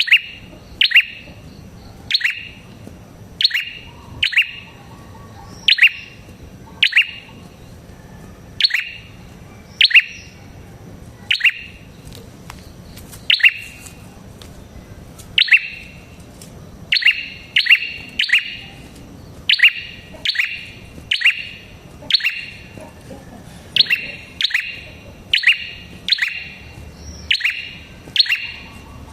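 Red-headed prenjak calling: sharp, downward-slurred chirps repeated every half second to a second, often in quick pairs.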